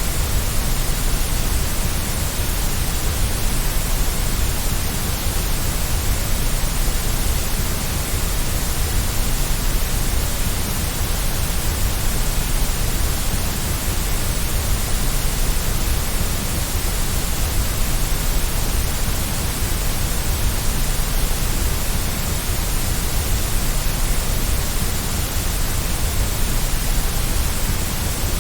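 Steady white noise for baby sleep: an even, unbroken hiss that never changes, with a low rumble underneath.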